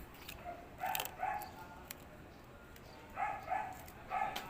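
A dog barking: about five short barks, a pair about a second in, then three more close together near the end.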